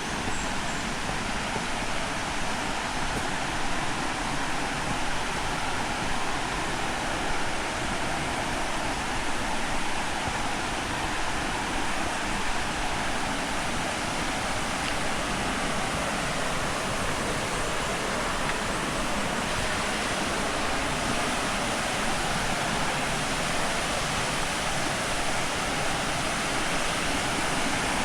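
Waterfall pouring steadily into its plunge pool, an even, unbroken rush of water.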